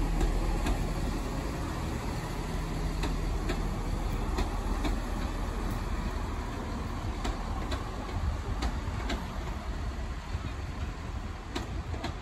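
Northern multiple-unit passenger train rolling slowly over pointwork, with a steady rumble and sharp clicks, often in pairs, as its wheelsets cross rail joints.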